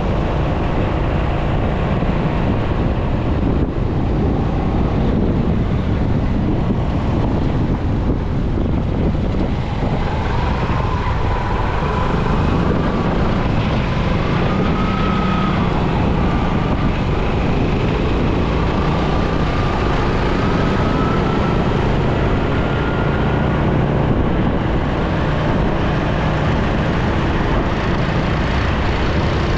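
Steady road noise from a motorcycle riding through city traffic, with wind on the microphone. A faint whine wavers and rises partway through.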